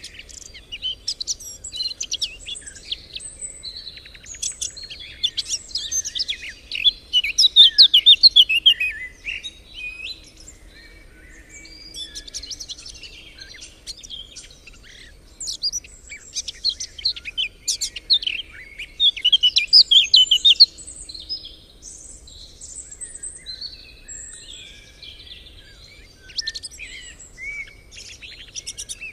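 Several songbirds singing and chirping at once, quick high trills and twitters overlapping, with the loudest bursts about a quarter of the way in and again about two-thirds through.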